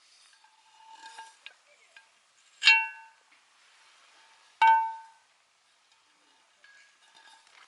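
Cookware or tableware clinking: two clear ringing clinks about two seconds apart, each ringing on briefly, with a few lighter taps around them.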